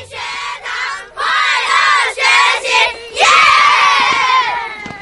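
A group of children shouting together, in several short bursts and then one longer shout about three seconds in.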